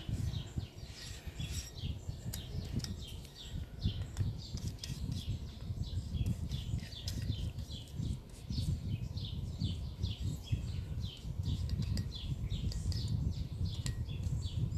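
A bird chirping over and over, a steady series of short falling chirps about two or three a second, over a low background rumble.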